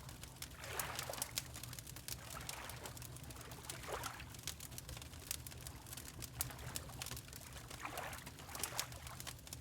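Water lapping in soft swells every three to four seconds, with a wood fire crackling in many small sharp pops throughout, over a steady low rumble.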